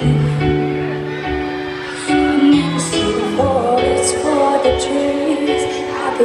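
Live performance of a slow pop ballad: a woman's lead vocal over long held chords.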